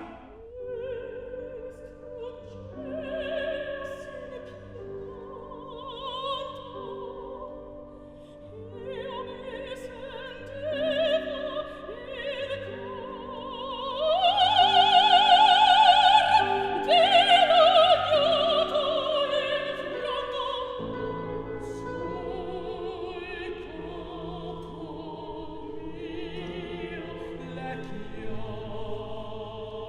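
Operatic soprano singing with wide vibrato over instrumental accompaniment, climbing to loud, sustained high notes about halfway through, then sliding back down to a quieter, lower line.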